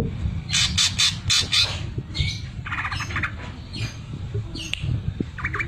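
Greater green leafbird (cucak ijo) singing in harsh, chattering phrases, broken by fast stuttering note trains of the kind bird keepers call the 'mesin jahit' (sewing machine) phrase. Clusters of scratchy notes come about half a second in, a quick rattling run in the middle, and another near the end.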